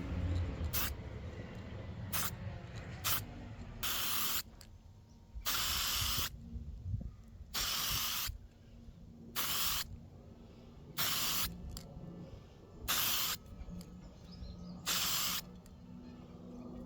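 Aerosol spray can sprayed in short bursts of about half a second to a second, roughly every one and a half to two seconds, with a few quicker puffs at first.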